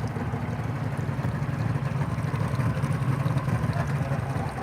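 Boat engine running steadily, a low even drone with no change in speed.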